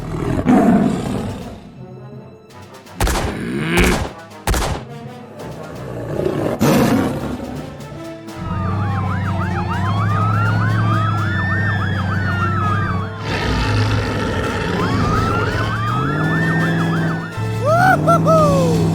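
A few sudden hits and swelling noises, then an emergency-vehicle siren wailing in slow rising and falling sweeps over a steady low engine hum, with a quicker yelp near the end.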